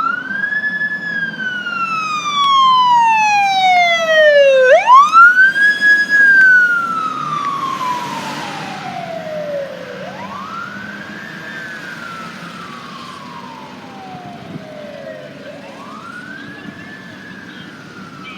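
Emergency vehicle siren on wail, sweeping quickly up and then slowly down about every five seconds. It is loudest about five to seven seconds in as the vehicle passes, with a brief rush of road noise, then fades as it moves away.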